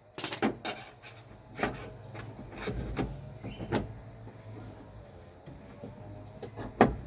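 Irregular clicks and knocks from hands and tools working on a car door's power window mechanism, the loudest cluster just after the start and another sharp knock near the end.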